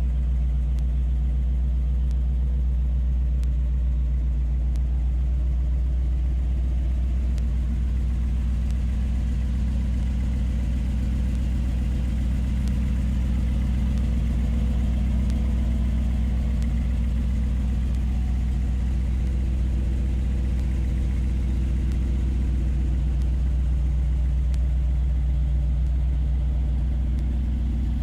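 Chevrolet Impala SS's freshly rebuilt 327 cubic-inch V8 running steadily with a deep, even exhaust note.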